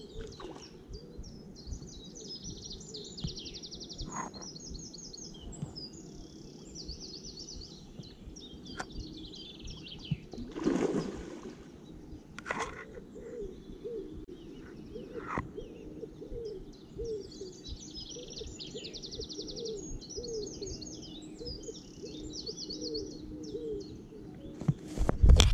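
Songbirds singing, many short, varied phrases, over a steady low background noise, with a lower call repeating about twice a second in the second half. A short rush of noise comes about eleven seconds in, and a loud thump near the end.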